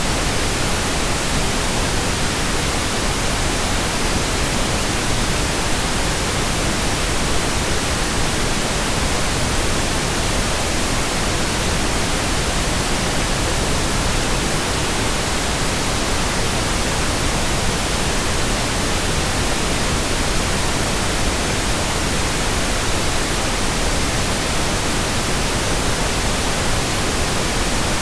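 Steady, unchanging white noise: an even hiss across all pitches with no other sounds.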